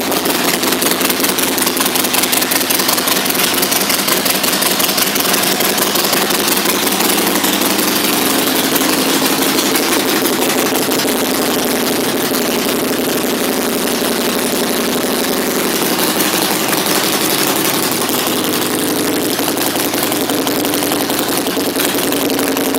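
2011 Harley-Davidson Sportster Forty-Eight's air-cooled 1200 cc V-twin with Vance & Hines pipes idling steadily, freshly started.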